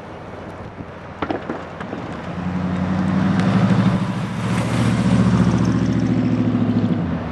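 EMD SD80MAC diesel-electric locomotives passing close, their 20-cylinder two-stroke diesels running as a loud, pulsing rumble. The rumble swells from about two seconds in and drops off near the end.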